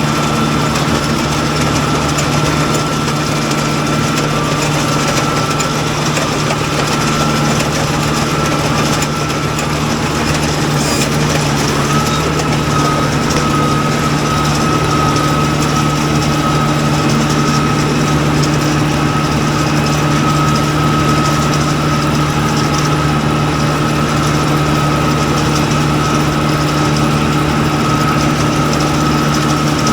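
Tractor engine running steadily while driving a poultry-litter crusting machine, with a steady high mechanical whine over it that drops out about ten seconds in and glides back up a couple of seconds later.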